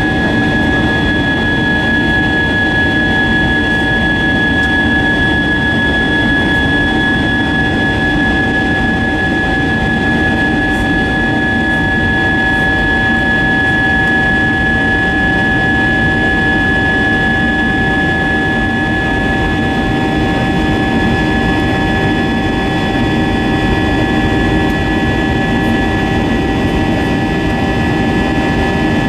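Airbus A320-232's IAE V2500 turbofan engines running steadily, heard inside the passenger cabin: a constant rush of airflow and engine noise with a steady high whine and several other fixed tones above it.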